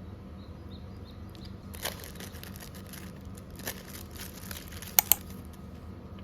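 Packaging being handled: crinkling and rustling in a few short bursts, then two sharp clicks in quick succession about five seconds in.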